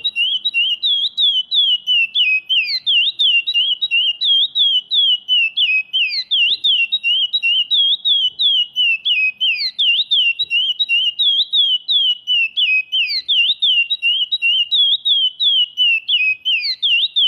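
Curió (chestnut-bellied seed finch), a young male still in brown plumage, singing the 'Praia Grande clássico' song: a fast, unbroken run of clear, high whistled notes, several a second, most sliding downward.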